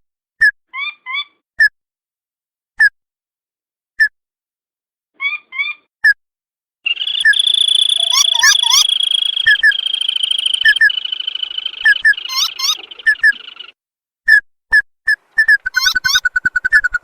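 Crake (tikusan) calls: short, sharp notes, single or in quick pairs, about a second apart. From about seven seconds in there is a dense, continuous rattling trill lasting several seconds, then the spaced notes return.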